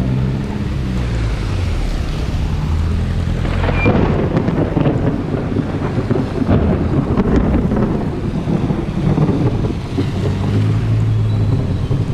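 Motorcycle engine running steadily under wind buffeting the microphone, with the rush of rain and wet road. About four seconds in the wind noise grows heavier and drowns out the engine, which comes through again near the end.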